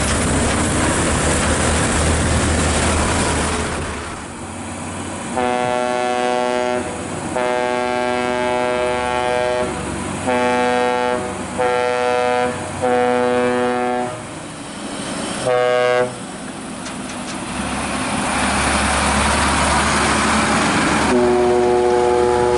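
A large vehicle's air horn blown in a series of long, steady blasts, about six of them, with heavy engine and traffic rumble before and after; another blast starts near the end.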